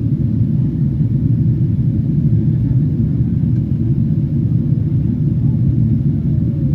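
Steady low rumble of a Boeing 777-300 airliner in flight as heard from inside the cabin: engine and airflow noise during the approach.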